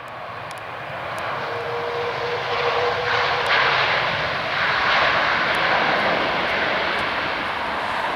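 Airliner's engines passing by, the rushing engine noise building to a peak about halfway through and then easing off.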